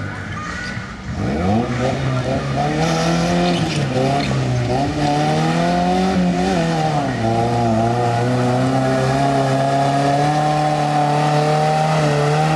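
Small off-road 4x4's engine revving under load through deep mud, its pitch rising and falling repeatedly, then held steady for the last few seconds.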